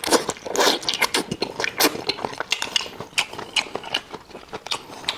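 A person chewing octopus: a fast, irregular run of mouth clicks and smacks, busiest in the first second or so.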